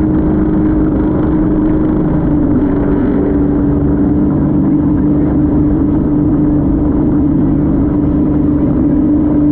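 Motorboat engine running steadily at speed: one held droning tone over a dense, steady rush of noise.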